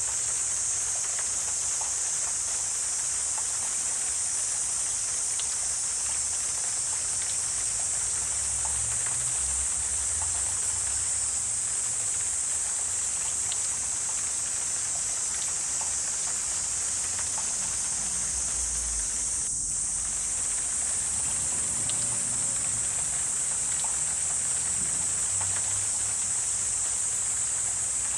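Wetland ambience dominated by a steady, high-pitched insect chorus that holds without a break, with faint low rumbles coming and going underneath.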